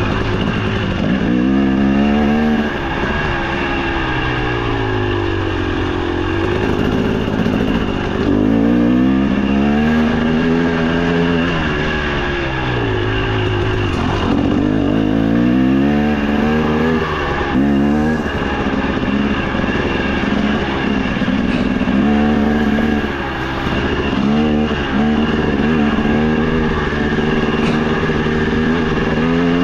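Two-stroke engine of a KTM 300 XC TBI dirt bike being ridden along a trail, revving up and easing off again and again every few seconds, over a steady rushing noise.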